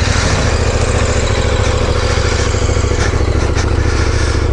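Dual-sport motorcycle engine idling steadily with a fast, even pulse.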